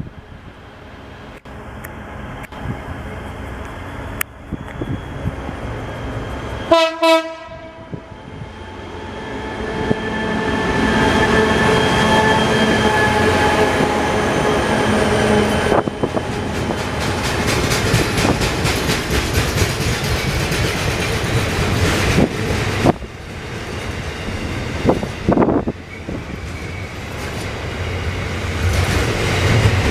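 A train sounds one short horn blast, then passes close by, running loud for about twenty seconds with wheels knocking over the rails now and then.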